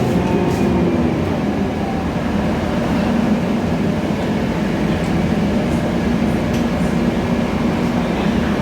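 Cabin sound of a Scania K320iA CNG city bus underway: a steady engine drone with road noise and a few light rattles, holding an even pitch.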